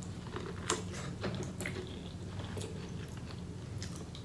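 Close-miked biting and chewing of a sauce-coated corn cob from a seafood boil: wet, smacking mouth sounds with scattered short clicks.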